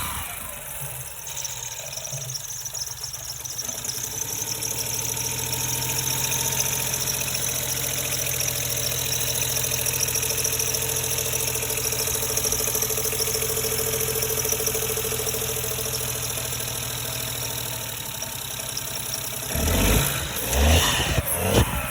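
Ford 1.0 EcoBoost turbocharged three-cylinder petrol engine idling steadily, then revved briefly a few times near the end.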